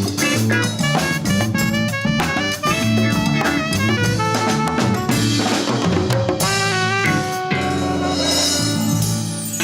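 Live Latin-fusion band playing: a drum kit keeps a busy rhythm under bass and melody lines. A little past halfway the band moves onto held chords with cymbals ringing.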